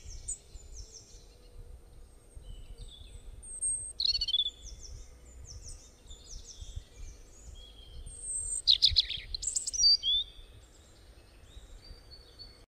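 Birds chirping: many short, high, downward-sliding calls repeating throughout, with louder bursts about four seconds in and again around nine to ten seconds in, over a low background rumble.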